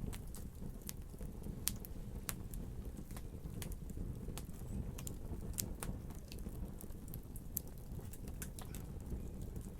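Fireplace fire crackling: irregular sharp pops and snaps, several a second at uneven spacing, over a steady low rumble of the burning flames.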